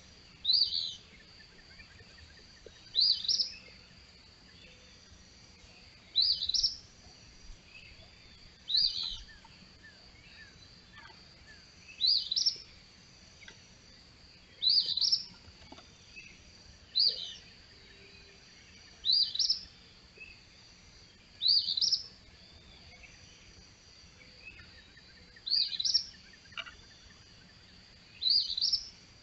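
A songbird singing one short, rising phrase over and over, about once every two and a half seconds, eleven times. A steady thin high tone runs underneath.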